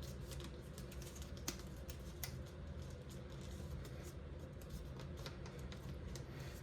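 Origami paper being handled and folded: faint, scattered light crinkles and taps, over a low steady hum.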